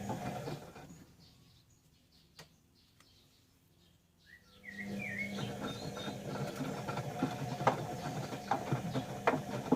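Bauknecht Dynamic WA 1460 Sports washing machine in its wash cycle: the motor turns the drum with a steady hum while laundry and water slosh and knock inside. It winds down to a stop about a second in, pauses for about three seconds with a couple of faint clicks, then starts turning the drum again.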